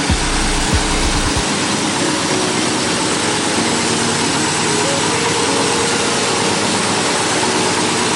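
1984 Hurst/Olds's Oldsmobile 307 V8 idling steadily, with a few low thumps in the first second or so.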